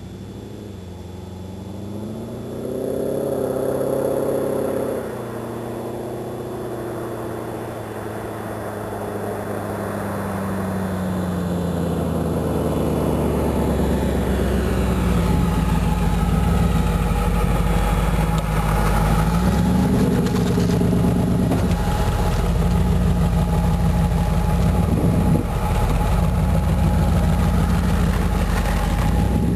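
T-bucket hot rod's engine revving up a few seconds in, out of sight down the road, then running steadily and growing gradually louder as the car drives up close. Short blips of the throttle come in the later part.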